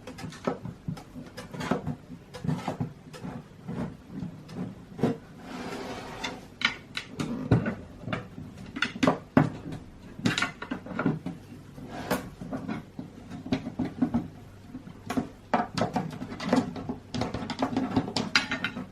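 Irregular clicks, taps and short scrapes of a flat-head screwdriver prying the glass lens of a Tofaş headlight away from its housing, lifting the old silicone seal. There is a longer scrape about six seconds in.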